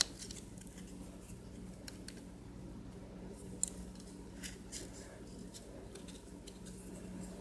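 Faint, scattered small clicks and taps of metal tweezers picking up and handling a nail sticker, the sharpest about three and a half seconds in, over a steady low electrical hum.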